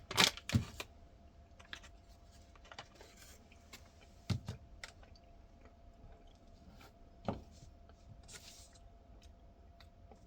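Quiet room with a few sharp taps and clicks of small objects being handled: two right at the start, then single ones about four and seven seconds in, over a faint steady hum.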